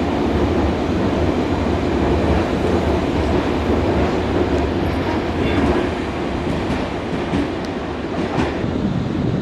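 Nankai Main Line electric train passing through the station at speed without stopping: steady running of wheels on the rails.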